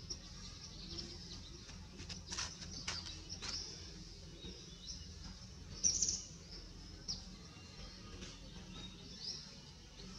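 Small birds chirping in the trees: short high chirps and calls scattered throughout, the loudest about six seconds in, over a low steady background hum.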